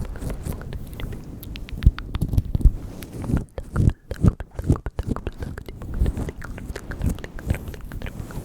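ASMR mouth sounds close to the microphone: a quick, irregular run of wet clicks and smacks.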